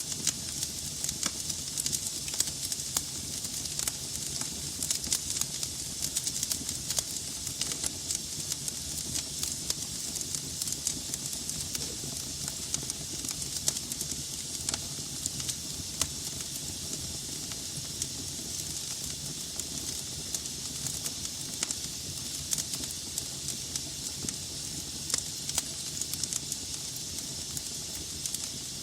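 Wood fire burning in a fireplace: a steady hiss with frequent sharp, irregular crackles and pops from the burning logs.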